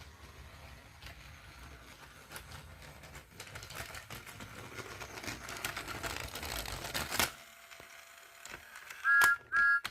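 Small battery-powered motorized toy train engine running on toy track, a clattering motor and wheel rattle that grows louder and then stops abruptly. Near the end come two short, loud high electronic toots from the engine's sound chip.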